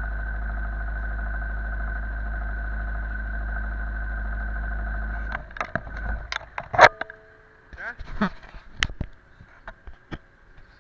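An engine idling steadily with a deep rumble, then cutting off about five seconds in, followed by a scatter of sharp clicks and knocks.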